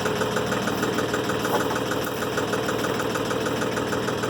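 Timberking 1400 sawmill's engine running steadily with an even, rapid pulsing.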